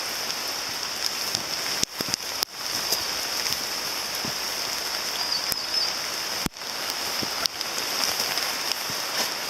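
Heavy rain falling steadily, with many sharp raindrop ticks close by.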